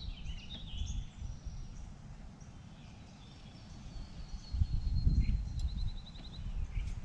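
Songbirds calling along a creek, with high chirps near the start and a thin high note that ends in a quick trill of about ten notes near the end. Beneath them is a low rumble that swells past the middle, typical of wind on the microphone.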